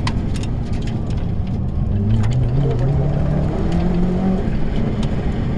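Rally car's engine heard from inside the cabin under hard acceleration, its pitch rising steadily from about two seconds in and dropping back about four and a half seconds in, over constant road noise. Scattered sharp clicks sound in the first half.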